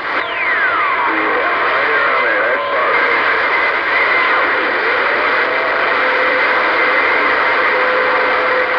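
CB radio receiver hiss with heterodyne whistles in it. One whistle falls steeply from high to low just after the start. Another rises a little about halfway through, then holds as a steady tone.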